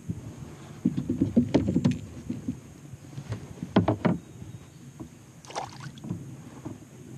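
Irregular knocks, rattles and low thumps, densest about a second in and again about four seconds in, as a hooked trout is brought in and handled with the fishing gear.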